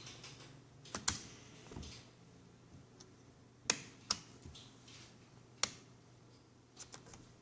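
Scattered sharp clicks and taps, about six and irregularly spaced, from a laptop's case, small parts and hand tools being handled while the netbook is taken apart.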